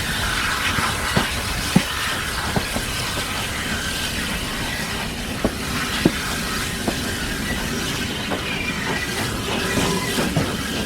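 Steam-hauled heritage train running along the line: a steady rumble and rush of the moving coaches, with irregular sharp clicks of wheels crossing rail joints every second or so.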